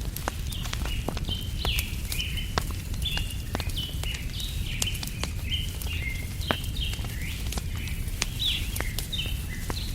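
Small birds chirping in quick, short high calls, many falling in pitch, over a wood fire crackling with sharp pops and a steady low rumble.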